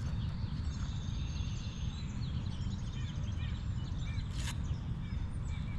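Wind buffeting the microphone as a steady low rumble, with small birds chirping in short repeated calls, and one sharp click about four and a half seconds in.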